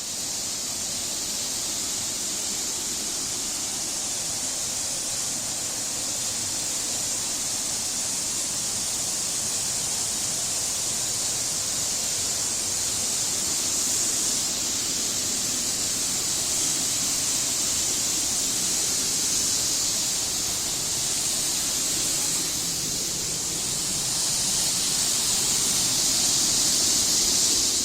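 Waterfall rushing with a steady hiss of falling water, growing slightly louder near the end.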